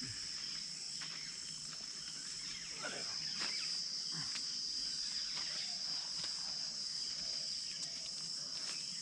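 Steady high-pitched insect chorus, with a few faint short sounds scattered through the middle.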